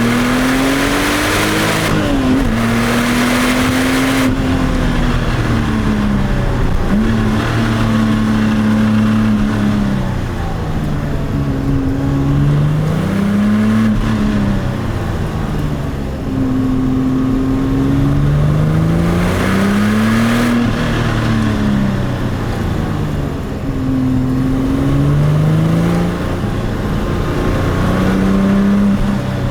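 Porsche 996 Turbo's twin-turbo 3.6-litre flat-six pulling hard and easing off again and again, its pitch climbing and dropping several times through the gears. A rushing hiss comes in near the start and again about two-thirds of the way through.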